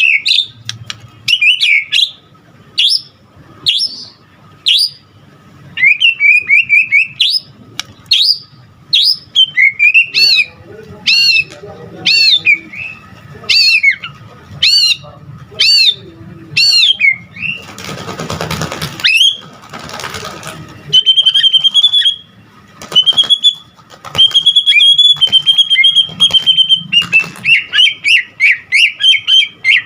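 White-rumped shama (murai batu) singing loudly, a varied song packed with mimicked phrases: a string of repeated sweeping whistled notes, a harsh, noisy passage about two-thirds through, then long held high whistles and a fast run of short notes near the end.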